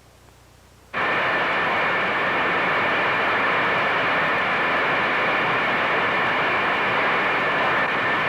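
Avro ejector wind tunnel running: a steady rush of air with a few high, level whining tones. It switches on abruptly about a second in and holds at an even level.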